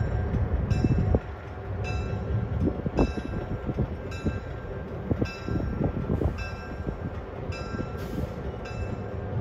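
Passenger train rolling slowly past behind the Pennsylvania E8A diesel locomotive: a low engine rumble with clanks from the wheels and couplers, louder for the first second. Over it the locomotive bell rings about once a second.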